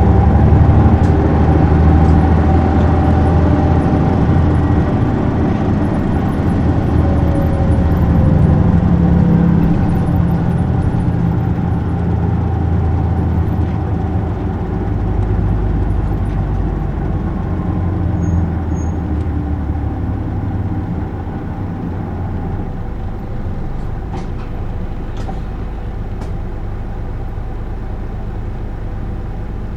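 Isuzu Erga city bus's inline-six turbo-diesel engine running as the bus drives, heard from inside the cabin. In the first third its note climbs and falls as it pulls, and in the second half it settles quieter and steadier.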